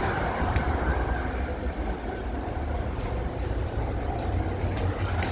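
A steady low mechanical rumble with a few faint clicks.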